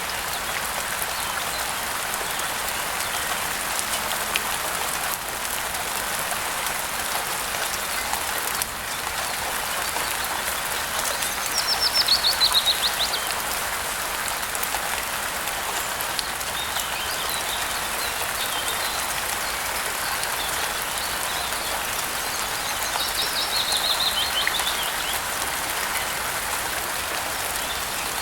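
Steady rain falling, with a bird singing a quick descending trill about twelve seconds in and again near the end, the loudest sounds; a few faint chirps come between.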